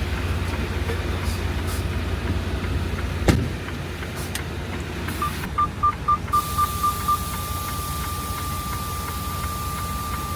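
Semi-truck's diesel engine idling with a low rumble, a single knock about a third of the way in, then an electronic beep repeating about four times a second that turns into one steady tone, like a cab warning buzzer.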